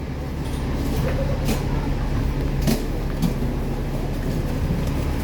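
A boat's engine runs steadily with a constant low drone, and a few light knocks can be heard over it.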